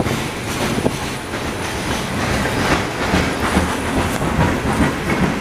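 Freight train rolling past at close range, its wheels clicking repeatedly over the rail joints above a steady rumble.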